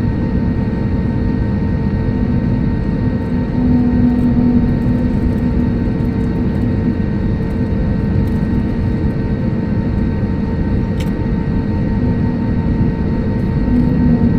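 Airbus A320neo engines running, heard from inside the passenger cabin. A steady deep rumble carries a few constant humming tones.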